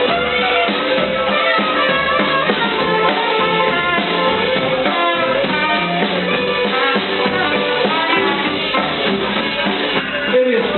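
Live swing band playing an instrumental passage of a song on drum kit, guitar and bass, with a melody line that bends up and down over the beat.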